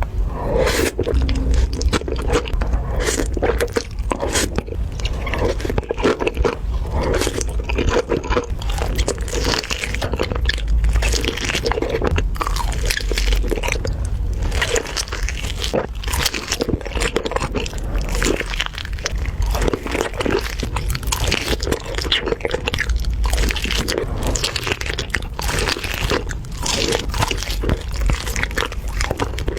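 Close-miked eating: continuous biting and chewing with dense, irregular crunching.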